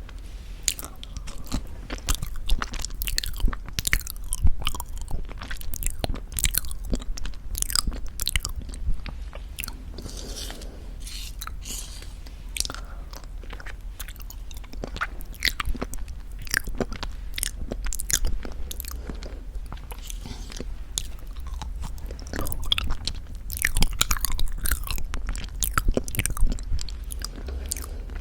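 Close-miked mouth sounds of eating very thick Greek yogurt with honey: many short wet clicks and smacks as the sticky yogurt is worked in the mouth.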